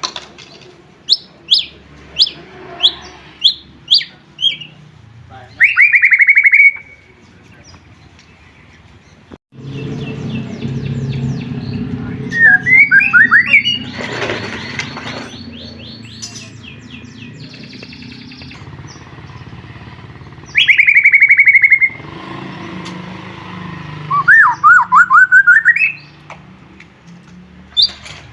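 White-rumped shama (murai batu) singing loud whistled phrases: a quick run of short, sharp falling notes, then rising trilled phrases separated by pauses. About nine and a half seconds in, a low steady hum comes in under the song.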